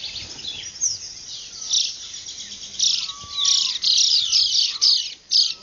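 Dawn chorus of many birds chirping and calling at once, high and overlapping. About halfway through, the calls become a run of loud, rapid chirps.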